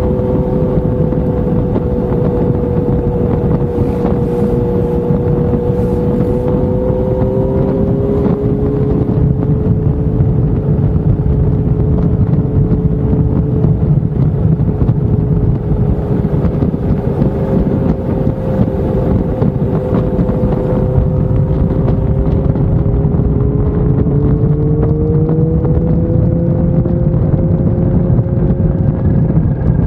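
Motorcycle engine running at a steady cruise, its note drifting slowly up and down with the throttle and rising a little about eight seconds in and again near the end, under heavy wind rumble on the microphone.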